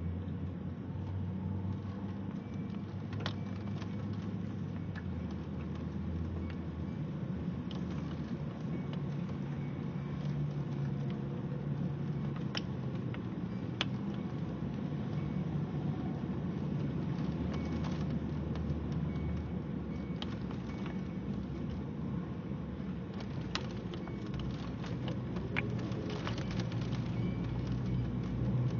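Steady low engine and road noise of a car, heard from inside, with scattered sharp ticks of rain striking the car.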